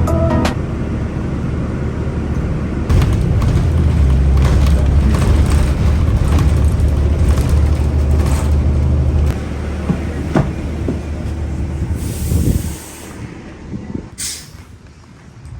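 Low, steady vehicle rumble that drops away suddenly about thirteen seconds in, followed by a brief hiss.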